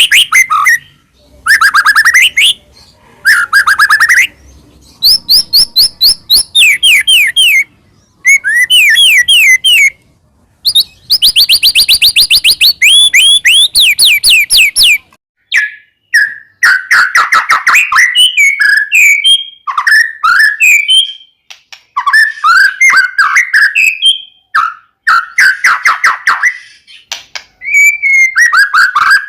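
White-rumped shama (murai batu) singing loudly in energetic, agitated phrases. The first half is made of rapid repeated whistled notes in bursts, and the second half turns to varied warbling phrases.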